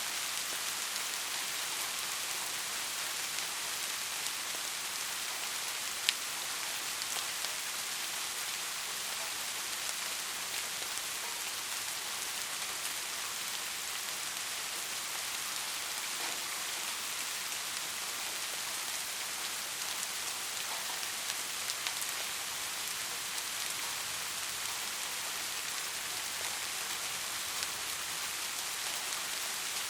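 Steady rain falling, an even hiss with scattered sharp drop ticks, one noticeably louder about six seconds in.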